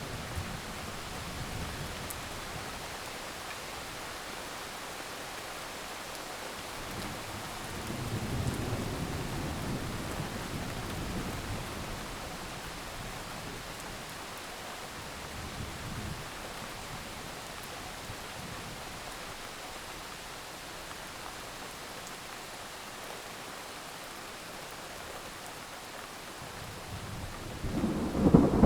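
Heavy rain falling steadily, with a low roll of thunder swelling about seven seconds in and fading over several seconds, and louder thunder building near the end.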